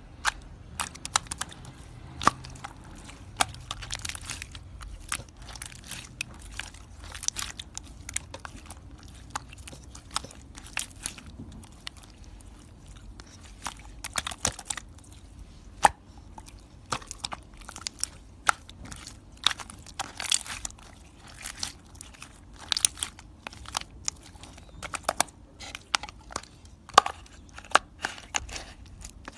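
Close, irregular crunching and crackling: sharp little cracks, several a second, over a low steady hum.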